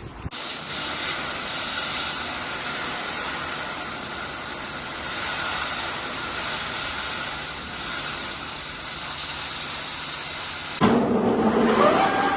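Metal-cutting torch hissing steadily while the old spikes are cut off a tractor bale fork; it cuts out abruptly near the end. A different machine then starts, with a rising whine.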